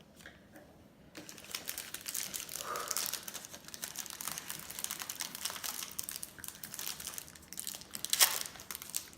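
Crinkling of ice cream packaging being handled: a dense crackle of quick ticks that starts about a second in, with one sharp louder crinkle near the end.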